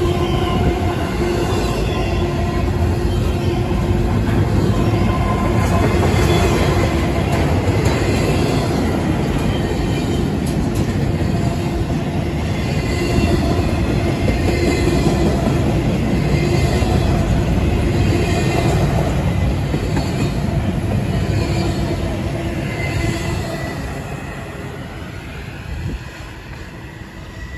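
Empty intermodal well cars of a CSX double-stack freight train rolling past: steel wheels rumbling on the rails with steady squealing tones. The sound fades over the last few seconds as the end of the train moves away.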